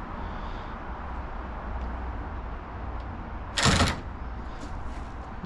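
Steady low background, then one short, loud burst of tool noise about three and a half seconds in, from work on a Torx bolt on the car's core support.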